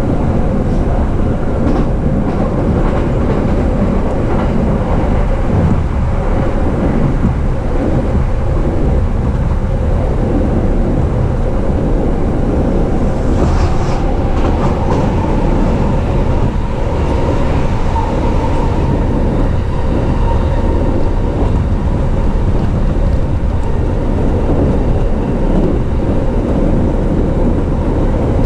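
JR East E233 series electric train running along the line, heard from inside the car as a steady rumble of wheels on rails. A faint steady whine rises out of the rumble about halfway through.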